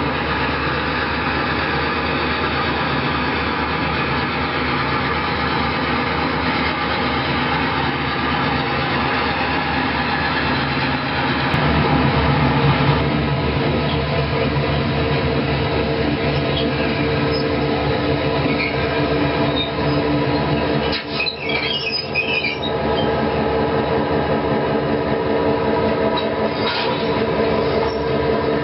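Sound decoder of an HO scale model EMD SD9 diesel locomotive playing its diesel engine sound while switching cars, the engine note getting heavier about eleven seconds in. A brief high squeal, like wheel or brake squeal, comes about two-thirds of the way through.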